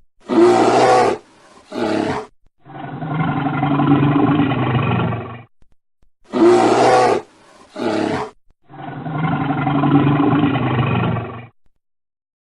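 Recorded tiger roar sound effect played twice, the same clip each time: two short roars followed by a long growl lasting about three seconds.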